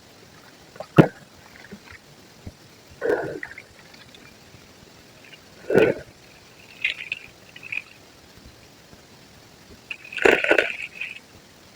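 Soft white concrete being crumbled and crushed, wet, in separate crunches: a sharp crack about a second in, then short crumbling bursts around three and six seconds in and a longer one near the end.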